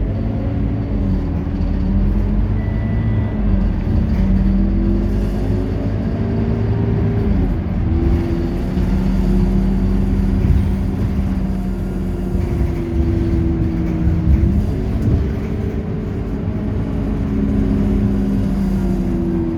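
Scania K230UB bus's diesel engine pulling under load, its pitch climbing, dropping sharply about halfway through at a gear change, holding steady, then dropping and climbing again a few seconds before the end.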